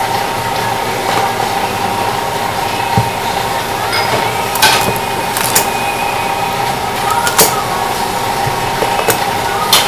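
Hard objects knocking and clinking now and then, a second or two apart, over a steady hum.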